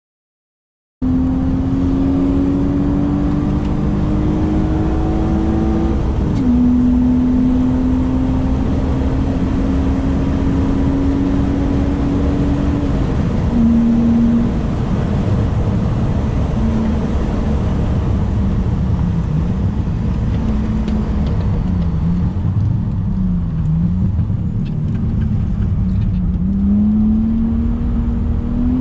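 BMW E36 328i's M52 2.8-litre inline-six under load on track, starting about a second in. The revs climb steadily and drop sharply twice, about six and thirteen seconds in, as it upshifts; after that they rise and fall repeatedly as the throttle is worked, climbing again near the end.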